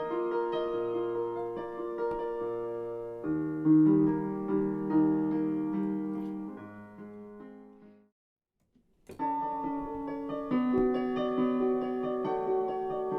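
Background piano music with slow, held chords; it fades out about eight seconds in, stops for about a second, then starts again.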